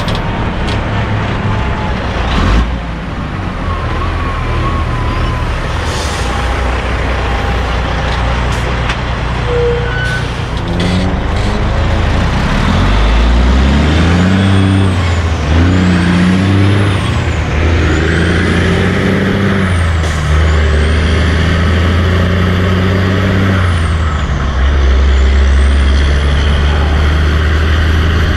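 Heavy diesel truck engine pulling away and accelerating, its pitch climbing and dropping back several times as it shifts up through the gears, over steady road traffic. From about halfway in, a high whistle swoops up and down above the engine.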